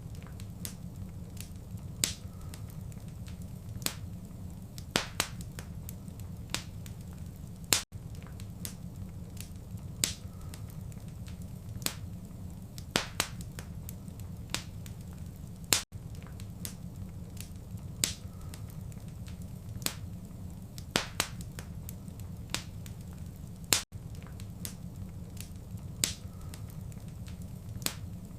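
Wood fire in a fireplace crackling, with sharp irregular pops and snaps over a steady low rumble. It is a short recording looped about every eight seconds, with a brief dropout at each seam.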